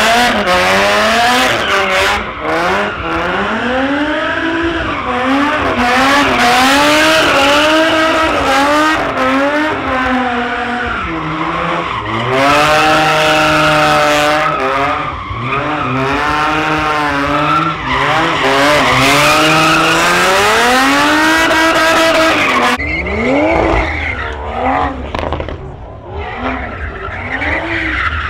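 Car doing donuts: the engine revs up and down hard, over and over, under continuous tyre screech. About 23 seconds in, the screeching falls away and the engine's deeper rumble carries on.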